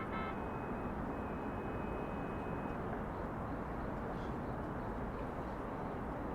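Steady outdoor city hum of distant traffic. Near the start a thin, high, steady tone sounds for about two seconds above it.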